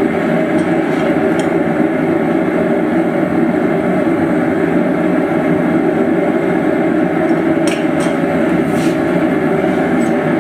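A blacksmith's forge running with a steady, unchanging rushing noise while the steel heats, with a few faint clicks over it.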